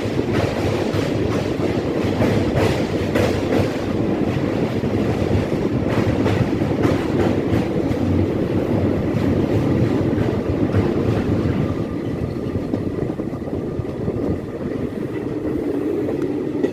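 Passenger express train rolling across a railway bridge: a steady rumble of coaches with the clickety-clack of wheels over rail joints, the clicks coming thick in the first seven seconds or so and more sparsely after.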